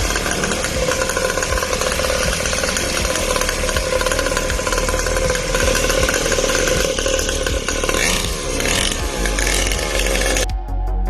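49cc two-stroke pocket bike engine running at a fast, buzzing pace, with its pitch shifting briefly near the end, then cutting off abruptly.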